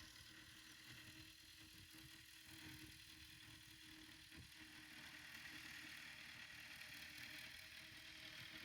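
Faint, steady running of a tractor engine pulling a laser land leveler, a low rumble with a steady hum and some hiss.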